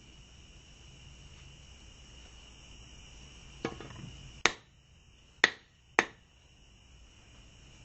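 Hammer striking the steel bar of a hand-forged fire poker to straighten it: a lighter knock, then three sharp blows over about a second and a half, each with a short ring. A steady high-pitched drone runs underneath.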